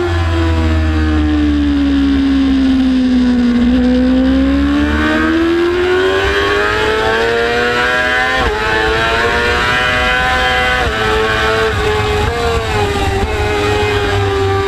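Track-ridden motorcycle engine at speed: its note falls for a few seconds as the bike slows for a corner, then rises again under acceleration, dipping briefly at each upshift, over steady wind rush.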